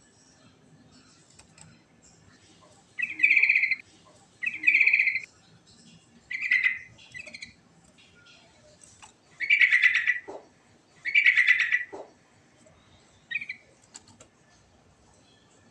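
Sooty-headed bulbul (trucukan) singing: about six short, bright warbled phrases, each under a second, with pauses of a second or two between them.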